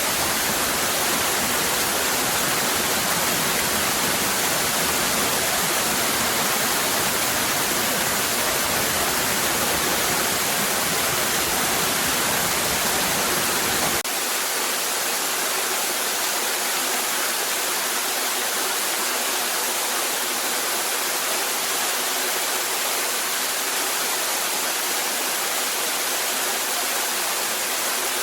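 Cascading waterfall rushing with a steady hiss of falling water. About halfway through, the deep rumble underneath cuts out abruptly, leaving a thinner, slightly quieter rush.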